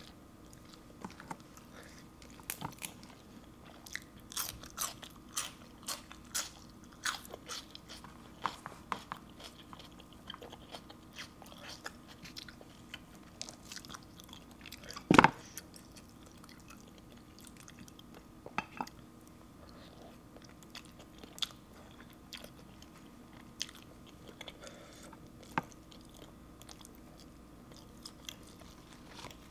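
Close-miked chewing and biting of papaya salad and raw greens: crisp wet crunches and mouth clicks, busiest in the first third and sparser after. One much louder click stands out about halfway through.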